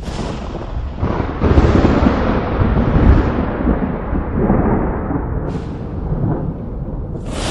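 Thunder: a clap opens into a long low rolling rumble that swells sharply about a second and a half in, then keeps rumbling more softly. A fresh crack begins near the end.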